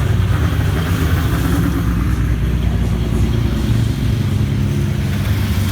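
Pro-4 race cars running around the track at caution pace, a steady engine drone. One car swells louder as it passes close about a second in.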